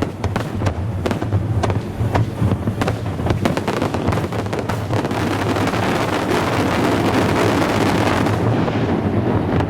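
Aerial fireworks going off in rapid bangs and crackles, several a second for the first half, then merging into a dense continuous crackle for a few seconds before easing near the end.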